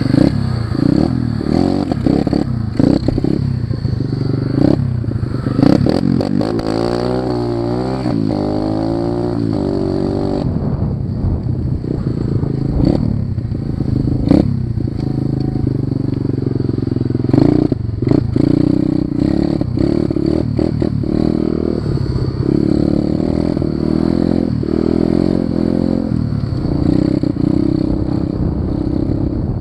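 Pit bike's small single-cylinder engine running hard while being ridden, its pitch rising and falling repeatedly as the throttle is opened and closed. Scattered clattering knocks are heard over the engine.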